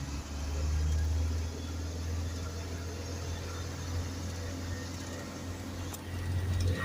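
Isuzu garbage truck's diesel engine running steadily with a low, even hum as the truck drives.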